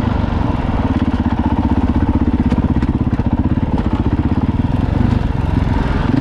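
Dirt bike engine running steadily as the bike is ridden, its firing pulses coming thick and even.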